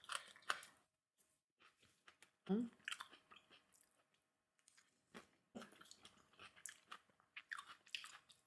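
Close-up chewing and mouth sounds of a person eating rice with stir-fried dishes: soft wet smacks and clicks, on and off, with a short murmur about two and a half seconds in.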